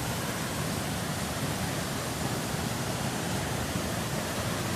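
Waterfall roaring, a steady rush of falling water.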